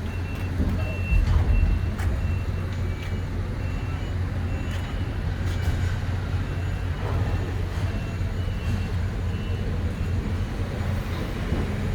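Heavy vehicle's diesel engine running with a low, steady hum, while a high-pitched warning beeper sounds over and over in short beeps.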